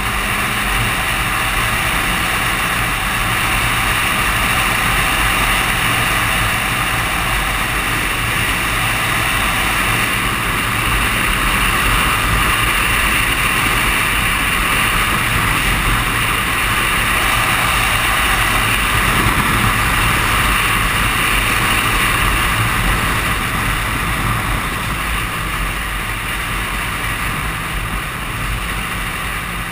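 Suzuki Katana 750 motorcycle's inline-four engine running steadily at cruising speed, under a constant rush of wind noise.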